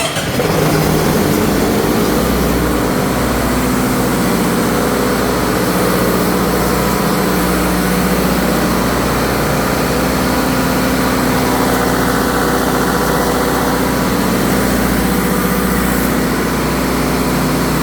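Fire pump engine running steadily just after starting, now on a newly fitted starter motor and batteries; it is running normally.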